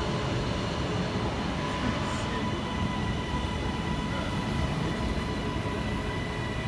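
Passenger train moving at a station platform: a steady low rumble with a steady whine over it.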